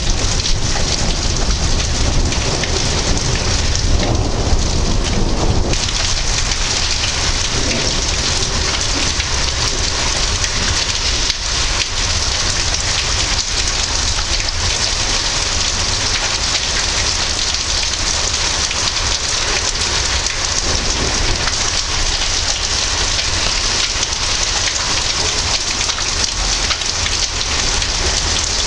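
Heavy thunderstorm rain pouring steadily, with a low rumble of thunder about four to six seconds in.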